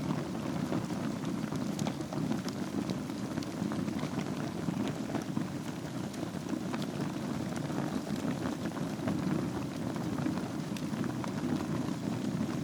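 Wood fire burning in a fireplace over a bed of embers: a steady low rumble of flame with scattered small crackles and pops throughout.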